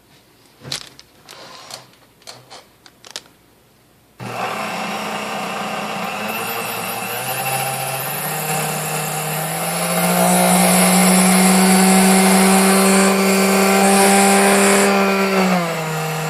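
A few light clicks, then the motor of a Sunbeam Mixmaster Model 7B stand mixer switches on about four seconds in and runs, its whine stepping up in pitch twice as the speed is raised, holding steady, and dropping back near the end. It runs well but its speed control is out of adjustment.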